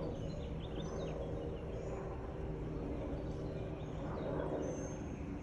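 Outdoor ambience: a steady low hum, with small birds chirping briefly now and then.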